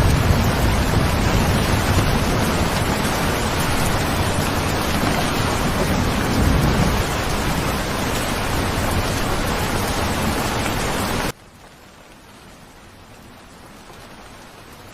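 Steady heavy rain. About eleven seconds in it cuts off abruptly to a much quieter hiss, which then slowly swells.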